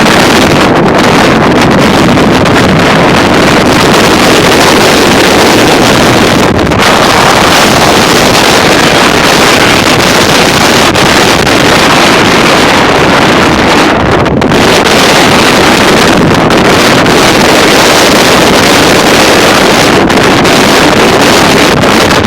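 Strong non-thunderstorm wind, sustained around 40-50 mph with gusts near 60 mph, blasting the microphone as a loud, unbroken rushing roar that eases only briefly a couple of times.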